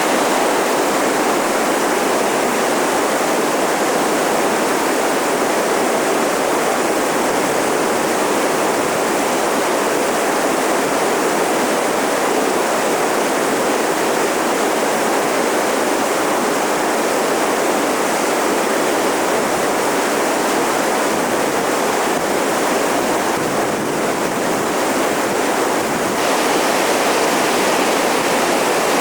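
Steady rush of whitewater rapids on a river.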